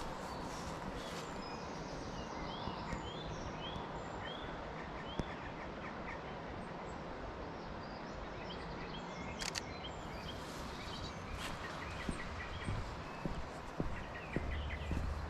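Several wild birds chirping and singing in short repeated notes over a steady outdoor hiss, with one sharp click about nine and a half seconds in and a few footsteps near the end.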